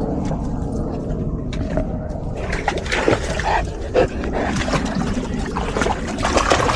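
A dog splashing through water, with a run of irregular splashes starting about two and a half seconds in over a steady low rumble.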